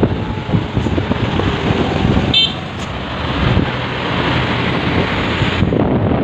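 Heavy road traffic running past, with wind buffeting the microphone, and one short high-pitched horn toot about two and a half seconds in.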